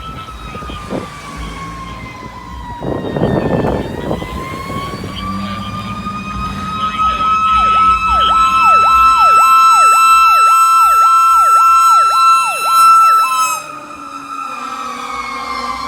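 Fire apparatus sirens passing: a wailing siren that dips in pitch about three seconds in and rises back to a steady high tone. Partway through, a second siren joins with a fast yelp that sweeps up and down about twice a second for some six seconds. There is a short burst of noise about three seconds in.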